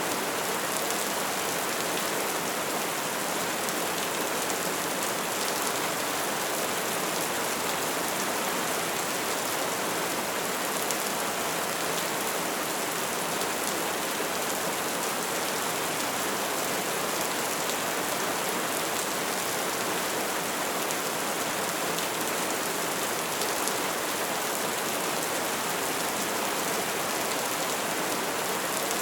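Bonfire burning with a steady hiss of flames and many small crackles and pops scattered through it.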